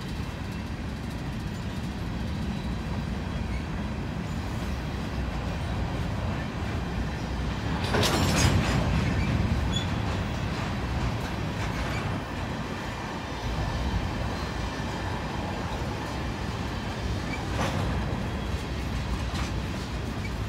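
Freight cars of a loaded potash and mixed freight train rolling past, a steady rumble of wheels on rail. About eight seconds in comes a loud clanking crash of slack action, the couplers running in or out along the train, and a smaller knock follows later.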